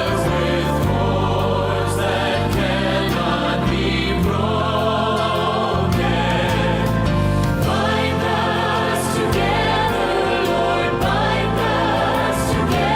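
Choir singing with instrumental accompaniment: sung lines over sustained low chords that change every second or two.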